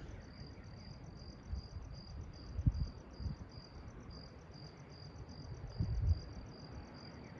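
Crickets chirping steadily, about four high chirps a second, over a low rumble with a few soft low thumps, the loudest about a third of the way in and again near the end.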